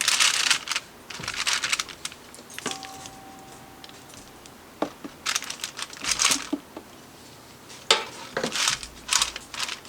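Parchment paper crinkling in an air fryer drawer as raw chicken legs are set down on it and shifted around, in several short bursts with pauses between.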